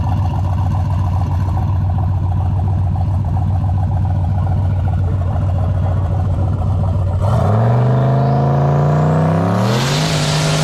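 Race car engine idling steadily, then revving up about seven seconds in, its pitch climbing for a few seconds, with a loud hiss joining near the end.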